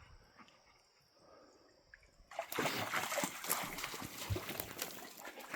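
Dog splashing through a shallow creek: it starts suddenly a little over two seconds in and goes on as a busy run of splashes.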